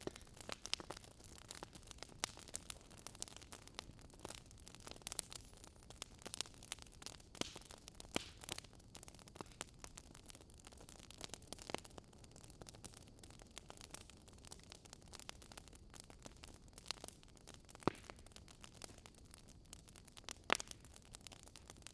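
Wood fire crackling: irregular small pops and snaps over a faint hiss, with a couple of louder pops near the end.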